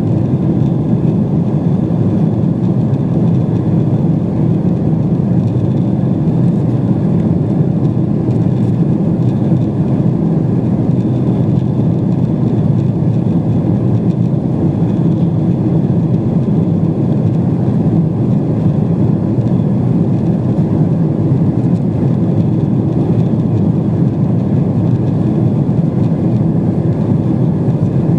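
Steady in-flight cabin noise of a Boeing 777-200 airliner: a constant mix of jet engine and airflow noise heard from inside the cabin, with a few faint steady hums over it.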